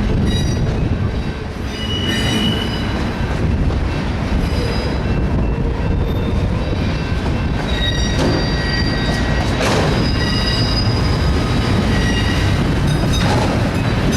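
Freight train of autorack cars rolling past, the wheels rumbling steadily on the rails with high squeals and screeches coming and going from the wheels.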